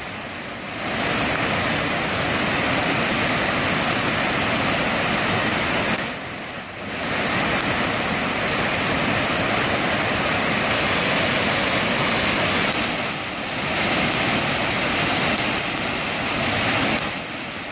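Carp River Falls rushing: a steady roar of falling water, easing a little a couple of times.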